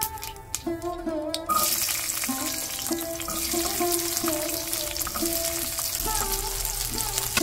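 Seeds crackling faintly in hot oil in a kadai, then whole peeled shallots tipped in about a second and a half in, setting off a loud, steady sizzle.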